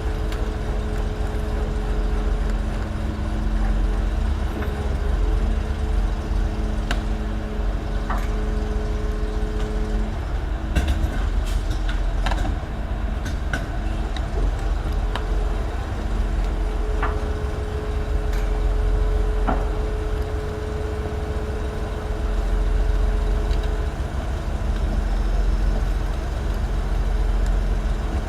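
Heavy diesel machinery running steadily in a low rumble. A held hum comes in during the first ten seconds and again past the middle, and there are scattered sharp metallic clanks and knocks.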